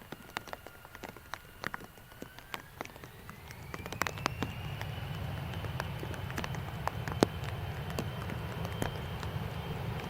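Jet engines of a Fuji Dream Airlines Embraer E-Jet spooling up: a whine rises over about three seconds and then holds steady while a low rumble builds. Raindrops tick sharply and irregularly close to the microphone throughout.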